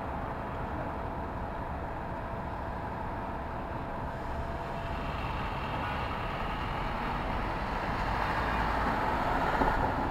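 City street traffic: a steady wash of vehicle noise, with a vehicle drawing closer and growing louder through the second half.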